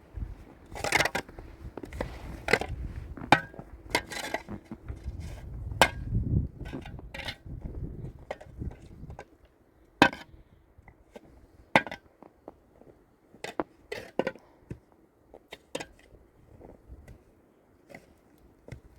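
Irregular knocks and clinks of hard objects being handled, closely spaced with a low rumble in the first half, then sparser and quieter.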